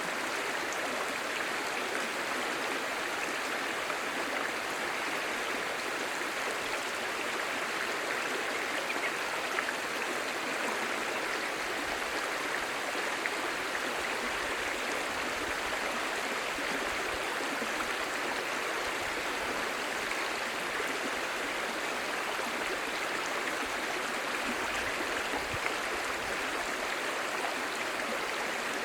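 A clear, shallow stream babbling and gurgling over stones, running steadily at an even level.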